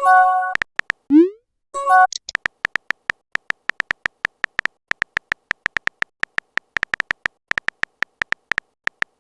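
Chat-app sound effects: a short multi-tone notification chime at the start, a quick rising blip about a second in and a second chime near two seconds, then a long run of short, same-pitched electronic beeps, about five or six a second, like text being typed out.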